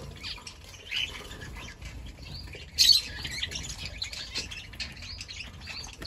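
Small aviary birds chirping and squawking in short, high calls, the loudest just under three seconds in.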